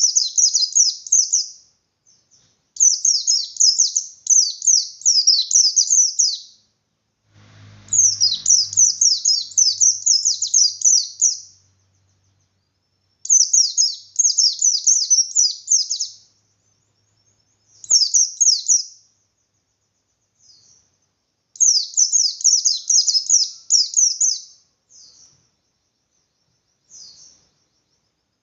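Pleci bustomi white-eye singing in the fast, continuous 'ngalas' style: phrases of rapid, high, downward-sweeping notes lasting one to four seconds, repeated after short pauses, with a few brief single snatches between them.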